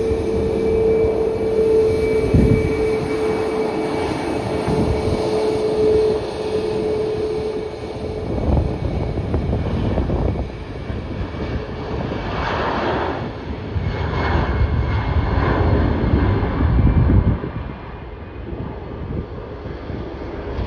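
Jet airliner's engines passing: a steady whine that fades over the first several seconds, then a low, crackling rumble that drops away about three-quarters of the way through.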